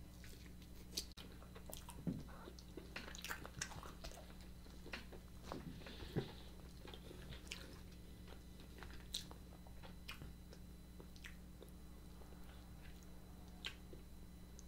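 Quiet, close-miked chewing of roasted alligator meat, with scattered small clicks and crackles as the meat is bitten and pulled apart; the loudest crackles come about two and six seconds in.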